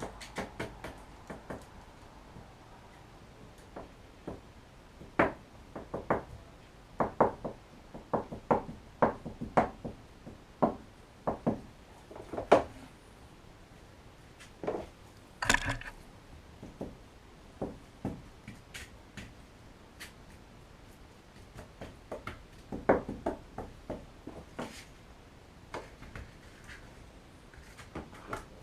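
Irregular knocks and taps of hard objects being handled, some coming in quick runs, with one sharper, louder knock about halfway through.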